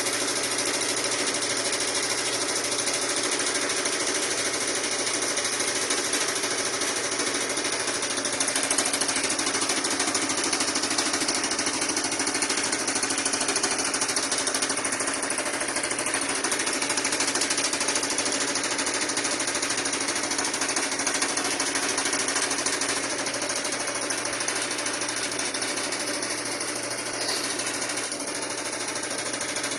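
Sharp washing machine running with a steady, dense mechanical noise and a low hum, unchanging throughout.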